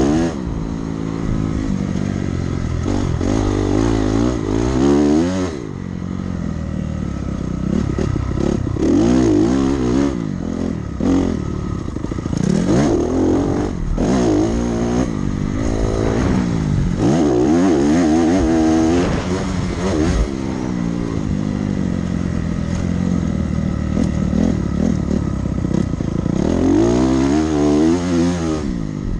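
Dirt bike engine ridden hard around a sandy motocross track, revving up and falling back again and again as the throttle opens and closes through corners and jumps.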